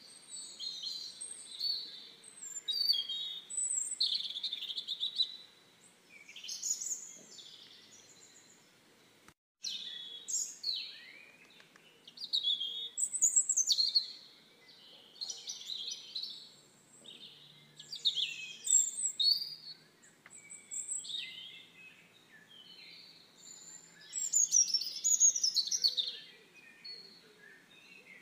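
Small songbirds chirping and singing in short, quick phrases of high sliding notes, one after another, with a brief cutout about nine seconds in.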